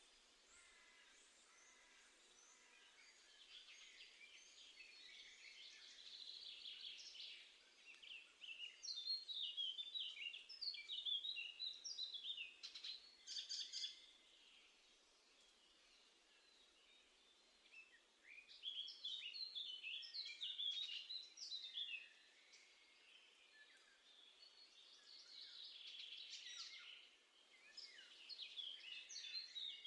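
Garden songbirds singing: about four bursts of quick, high chirping notes, each lasting a few seconds, with quiet pauses between them. Faint overall.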